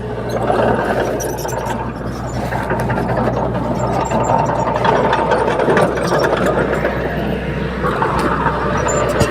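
Small Komatsu D21P bulldozer's diesel engine running steadily, with scattered clicks and rattles over it.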